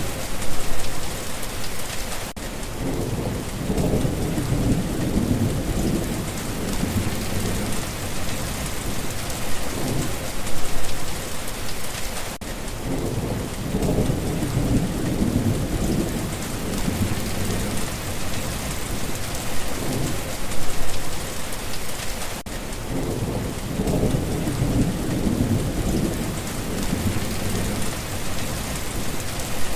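Steady heavy rain falling, with deep rolling thunder rumbling three times, each a few seconds long and about ten seconds apart.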